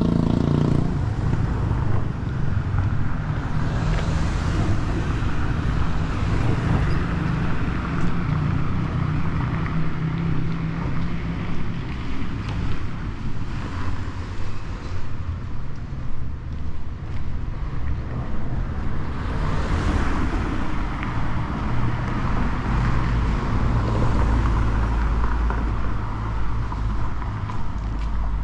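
Street traffic: cars passing by with a steady low rumble of engines and tyres, swelling as vehicles go past about four seconds in and again around twenty seconds in.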